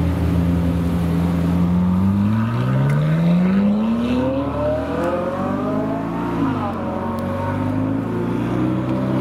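Supercar engine pulling away: it runs steady at first, then climbs in pitch for about four seconds as it accelerates. About six and a half seconds in the pitch drops sharply, then it holds steady.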